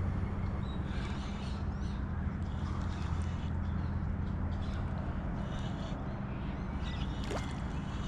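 Steady low outdoor rumble with a constant hum, with faint, short bird chirps scattered through it.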